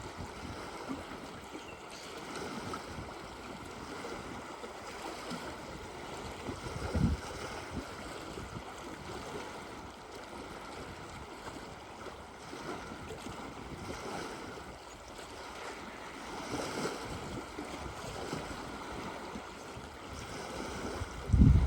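Moving water washing steadily, with two dull low thumps, one about seven seconds in and a louder one near the end.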